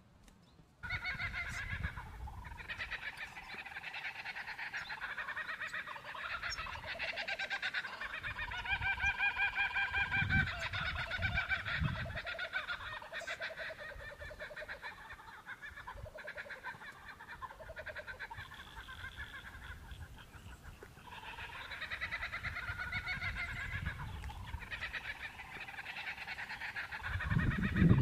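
Birds calling: a long, busy run of rapidly repeated, pitched calls that starts about a second in, eases off in the middle and builds again, with low knocks near the end.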